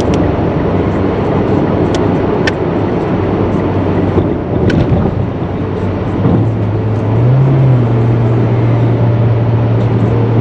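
Engine and road noise heard inside a small car towing a boat trailer at highway speed, a steady drone with a low engine hum that rises slightly about six seconds in.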